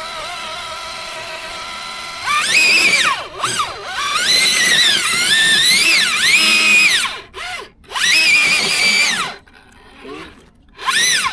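RC rock crawler's electric motor and geared drivetrain whining, steady at first, then from about two seconds in rising and falling in pitch over and over as the throttle is worked, with short stops in between.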